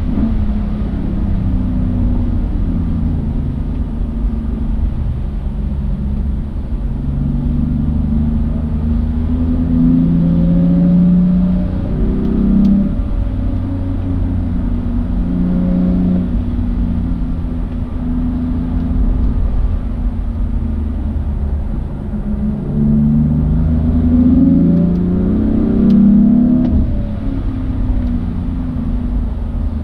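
A car engine heard from on board on a track lap. It repeatedly climbs in pitch under acceleration and drops back, over a steady low rumble.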